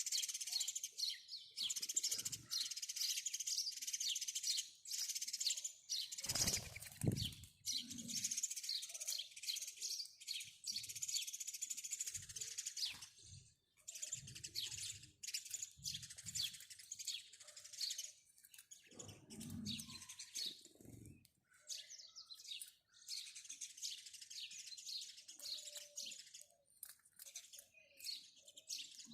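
House sparrows chirping, many short chirps overlapping in a busy chatter with a couple of brief lulls. A few low thuds come through twice, once about six seconds in and again near twenty seconds.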